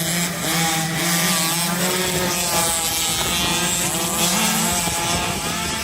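Several small youth motocross bikes racing past together, their engines revving up and down as the riders work the throttles.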